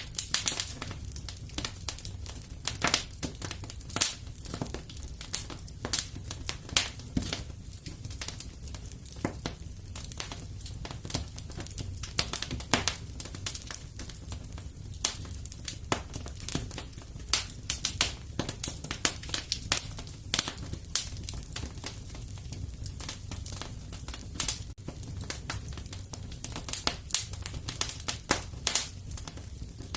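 Wood fire in a fireplace crackling, with irregular sharp pops and snaps several times a second over a low steady rumble of the flames.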